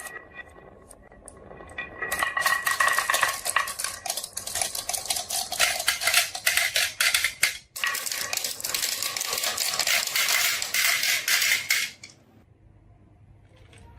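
Many marbles clattering and rattling down a marble run track, with a ringing rolling tone at times. The clatter stops suddenly about two seconds before the end.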